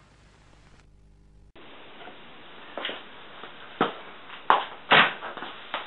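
A steel body dolly swung as a hammer against a dented steel Triumph TR4 fender, backed by a second dolly, striking about five times at uneven intervals. Before the blows there is a faint low hum.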